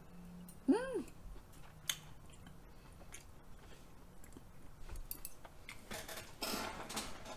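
Close-miked chewing of raw beef yukhoe, soft and wet, with faint clicks. About a second in comes a short note that rises and falls in pitch, and the chewing grows louder near the end.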